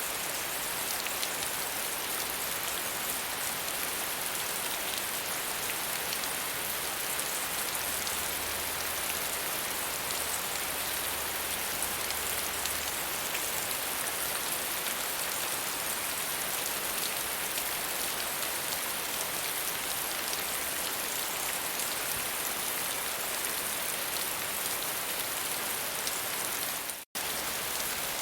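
Steady, gentle rain falling, an even hiss of many drops. The sound cuts out for a split second near the end.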